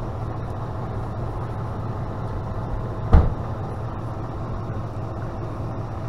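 Truck engine idling steadily, with one sharp thump about three seconds in.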